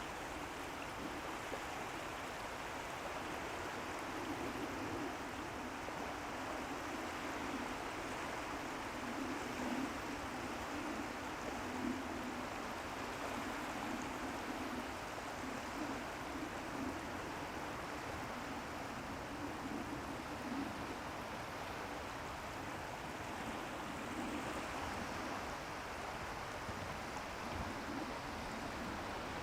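Steady rushing outdoor noise with no distinct events and no voices.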